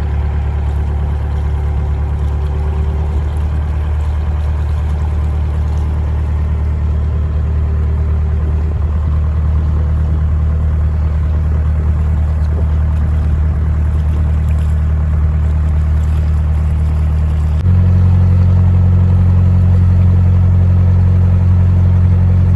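Narrowboat diesel engine running steadily with a low, even hum, stepping up in level about eighteen seconds in.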